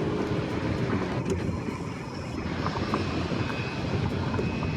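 Airplane passing overhead: a steady rushing engine noise, with a faint high whine coming in about halfway through.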